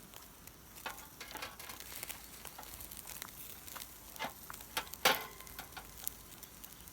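Food sizzling on a grill over a campfire, with scattered crackles and one louder sharp knock about five seconds in.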